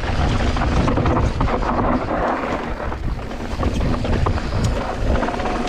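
Wind buffeting the microphone over the rumble of mountain-bike tyres on a rough dirt trail during a descent, with scattered short clicks and knocks from the bike.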